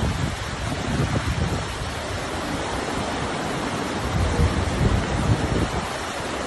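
Flash floodwater rushing through a wadi, a steady rush of water, with wind gusting on the microphone.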